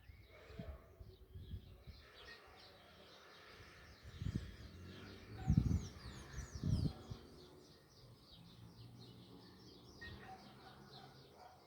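Small birds chirping and singing, many short high chirps and trills overlapping throughout. Three low dull thumps a little past the middle are louder than the birdsong.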